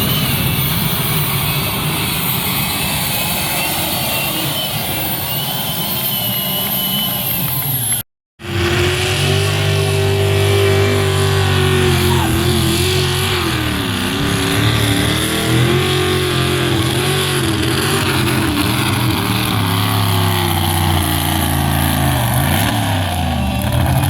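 Pulling-vehicle engine at full throttle under heavy load, hauling the weight sled down the track. There is an abrupt cut about eight seconds in. In the second clip the engine's pitch wavers up and down as it works against the sled.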